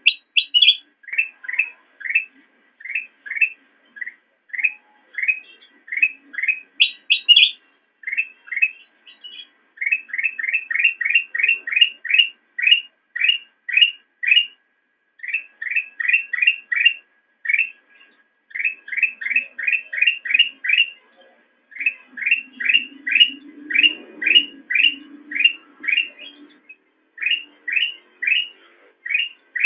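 Kutilang emas bulbul singing: long runs of short rising chirps, about four or five a second, in phrases broken by brief pauses, with a few higher notes near the start and about seven seconds in. A faint low rumble sits under the song about 23 seconds in.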